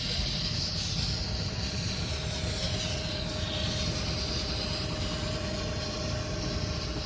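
Vehicle engine running steadily under way, a constant low rumble with a steady whine and a high hiss that dips in pitch about three seconds in.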